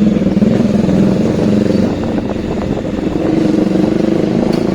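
Bajaj Dominar 400's single-cylinder engine running under way through a new aftermarket exhaust, a steady pulsing exhaust note that rises slightly in pitch about three seconds in.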